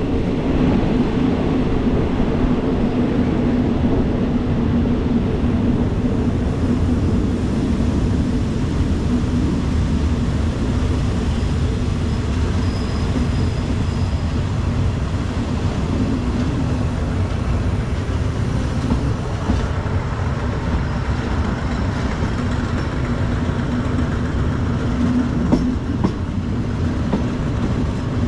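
Passenger train running along the line: a steady rumble of wheels on rails with a light clickety-clack of the rail joints and a constant low hum.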